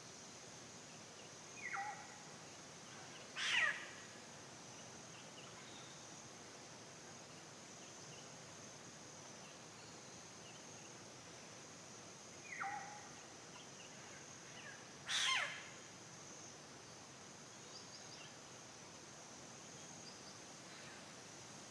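A bird calling in two pairs. Each pair is a short falling call followed about two seconds later by a louder call that sweeps steeply down in pitch. The calls sit over a steady high hiss, with faint chirps between them.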